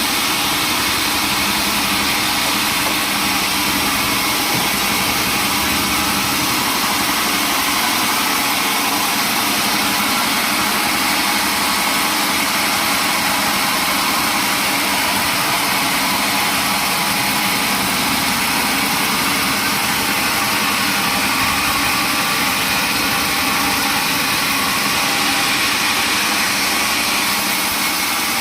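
Sawmill machinery running steadily: a constant mechanical noise that holds the same level throughout.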